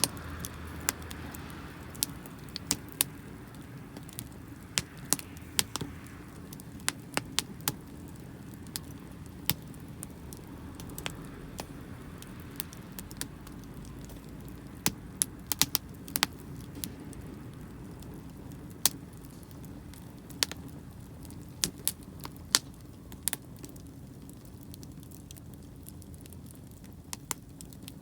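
Wood fire crackling, with frequent irregular sharp pops and snaps, a few much louder than the rest, over a steady low background.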